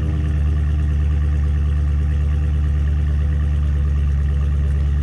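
Dodge Challenger 392 Scat Pack's 6.4-litre HEMI V8 idling steadily after a cold start, heard from behind the car. It runs through the stock exhaust with the baffles held open, a low, even drone with no revs.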